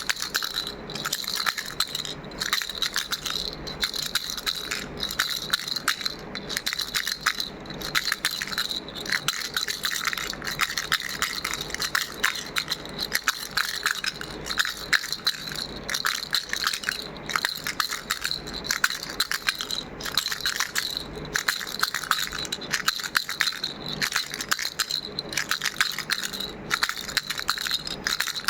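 Pink plastic ball rattle shaken steadily, its loose beads clattering in a dense stream with a steady high ringing note. There is a brief break about every second or so.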